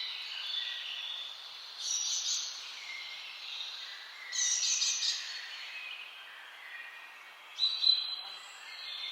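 Several songbirds singing at once, their phrases overlapping, with louder bursts of song about two seconds in, around four and a half seconds, and near the end.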